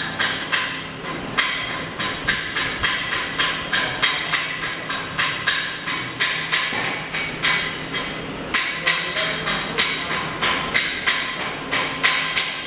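Hand hammers striking steel in a quick, uneven series of sharp, ringing knocks, about two to three a second, with several strikes overlapping.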